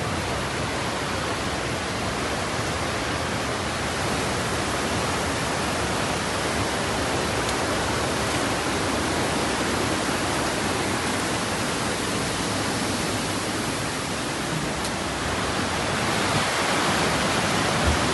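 Steady rushing of a flood-swollen river, an even wash of water noise that grows a little louder near the end.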